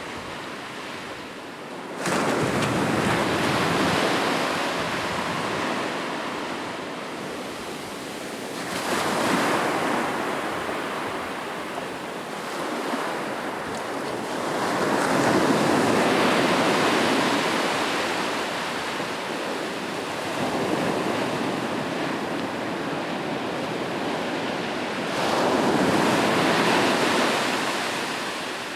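Ocean waves breaking on a beach and washing up the shore. Four surges come in, the first arriving suddenly about two seconds in, then one roughly every six to ten seconds, each swelling and fading away.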